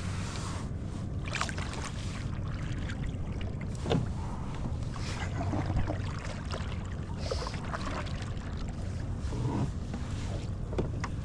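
Kayak on open water: a steady low rumble of wind and water against the hull, with a few scattered knocks and splashes.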